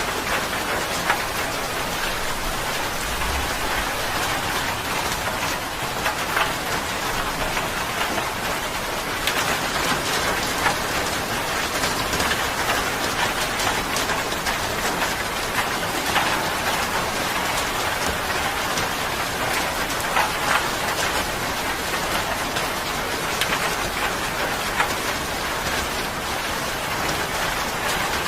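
Steady rain falling on a surface, with dense patter and distinct drop ticks.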